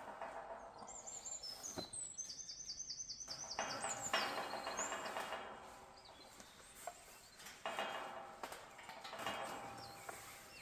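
A songbird singing: a fast trill of repeated high notes from about one to three and a half seconds in, then scattered short chirps. Under it come intermittent scuffing noises.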